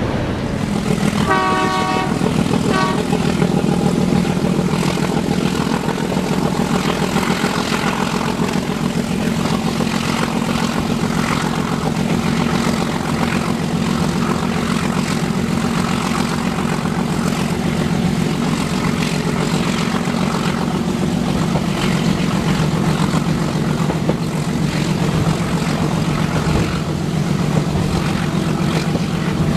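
Steady drone and rumble of a diesel-hauled train running, with a locomotive horn sounding two short blasts about one and a half and three seconds in.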